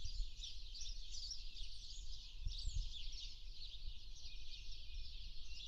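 Many small birds chirping over one another in a continuous chorus, over a steady low rumble with a couple of bumps about two and a half seconds in.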